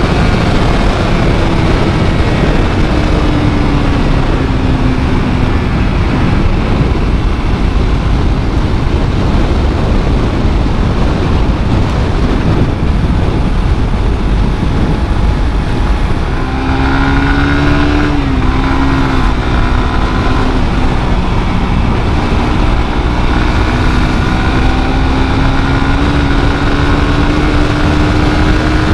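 Suzuki GSX-R150's single-cylinder engine running through its stock exhaust, as on a ride. The note sags slowly, breaks up and climbs in short steps about seventeen seconds in, then rises gently toward the end.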